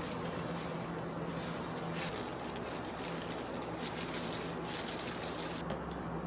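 Steady background noise with a low, even hum and a light crackle, changing abruptly near the end as the high end drops away.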